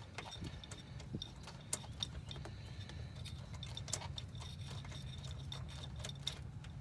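Scattered faint clicks and scrapes of a ratchet and socket backing out a car starter's upper mounting bolt, over a steady low hum.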